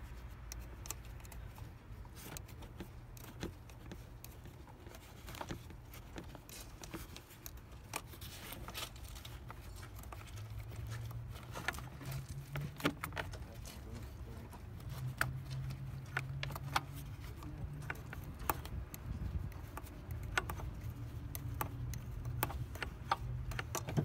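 Scattered light metallic clicks and ticks as a throttle cable and its fitting are twisted and worked loose by hand from the bracket on the throttle body, over a low steady rumble.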